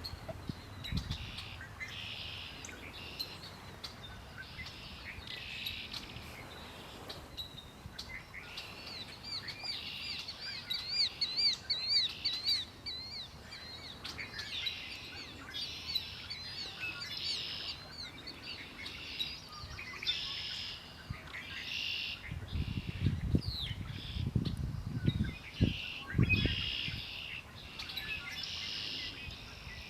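Several songbirds singing, with short song phrases repeated every second or two. One bird gives a fast warbling trill that rises and falls from about nine to thirteen seconds in. Low thumps come through briefly near the end.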